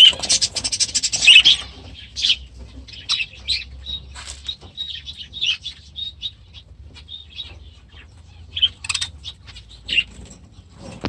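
Budgerigars chattering: a dense burst of chirps in the first second and a half, then scattered short, high calls.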